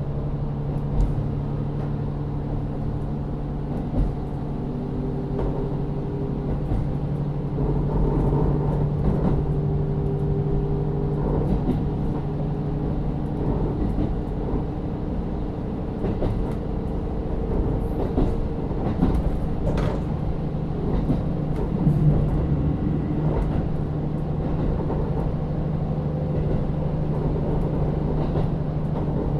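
KiHa 40 diesel railcar running, heard from inside the car: its DMF13HZB diesel engine gives a steady low hum, with occasional sharp clicks from the wheels and bogies over the track.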